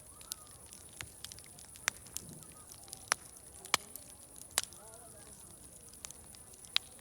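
Wood fire crackling with irregular sharp pops, the loudest coming about two, three and four seconds in, over faint distant crowd chatter and a steady high hiss.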